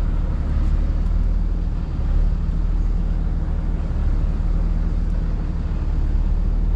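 Four-wheel-drive tow truck's engine running steadily as the truck moves, a low, even drone.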